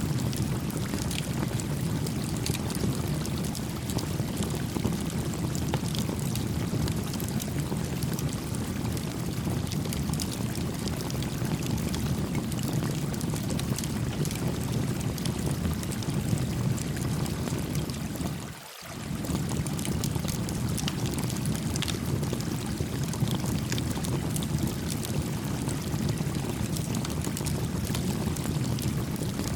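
Stream water flowing and burbling steadily, with a campfire crackling and popping in small scattered snaps over it. The sound dips briefly about two-thirds of the way through.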